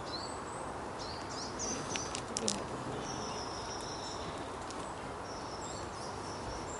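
Small birds chirping and whistling in woodland over a steady background hiss, with one longer held whistle about three seconds in and a few sharp clicks just before it.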